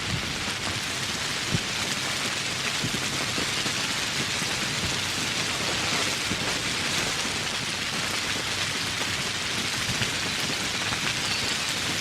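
Steady rain: a dense, even hiss with scattered individual drops ticking close by.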